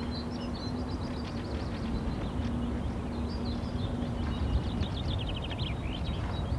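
Small songbirds chirping and trilling, with a fast trill of quick repeated notes about two-thirds of the way in, over a steady low rumble.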